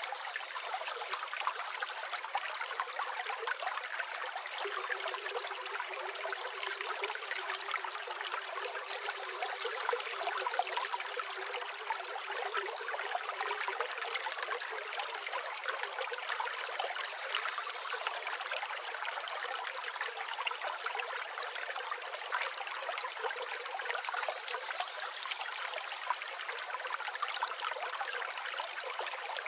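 River water flowing and babbling steadily over stones, an even rushing with no breaks.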